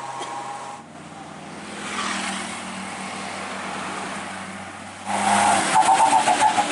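Old truck's engine running with a steady low drone and road noise. About five seconds in, louder music with a beat comes in.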